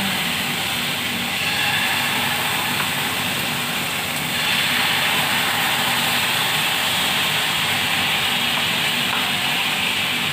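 Marinated salmon pieces sizzling in butter in a hot nonstick frying pan, a steady hiss that gets louder about four seconds in as more pieces go into the pan, with a few faint clicks of chopsticks against the pan.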